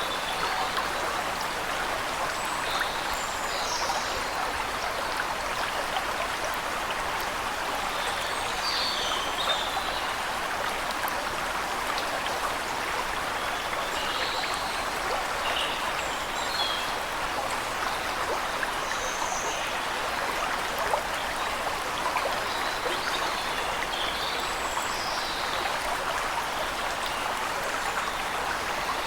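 Waterfall rushing steadily, with small birds chirping here and there high above the water noise.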